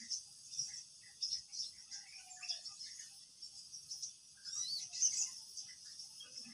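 A steady high insect drone with short bird chirps scattered through it, repeating irregularly.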